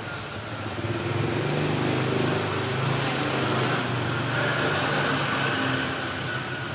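Low engine-like drone of a motor vehicle, swelling about a second in, holding, then easing off near the end.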